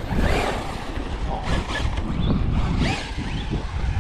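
Wind buffeting the microphone in a steady low rumble, with a few short faint sounds higher up.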